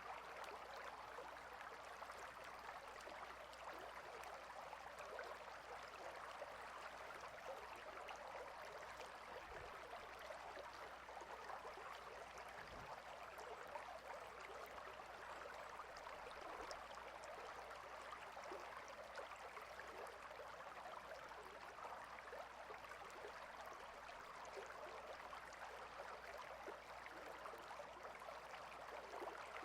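Faint, steady sound of a stream's water running, an even rushing and trickling that does not change.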